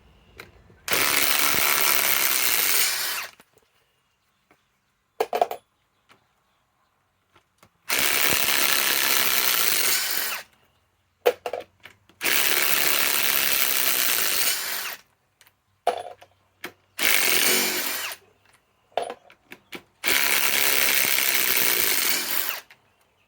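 Ryobi PSBIW25 compact cordless impact wrench hammering 3/8 by 5 inch lag screws back out, in five runs of one and a half to three seconds each. Short clicks of handling come between the runs.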